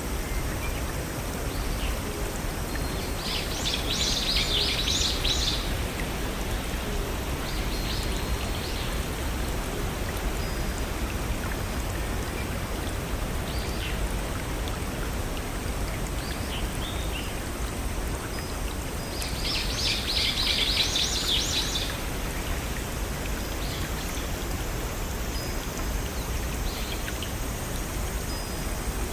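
Steady rush of running water from a small forest stream and waterfall. A songbird sings two rapid, high trilling songs, about three seconds in and again around twenty seconds, with a few short chirps between.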